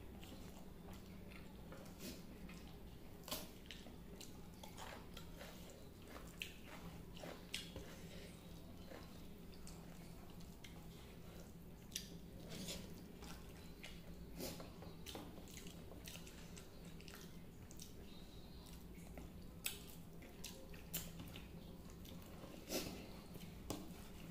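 Close-up mouth sounds of a man eating rice and fish curry by hand: wet chewing and lip smacks, with irregular sharp smacks every second or two over a steady low hum.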